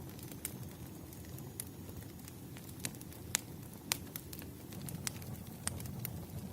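Campfire crackling: a steady low rumble of burning wood with irregular sharp pops and snaps, the loudest a little past the middle.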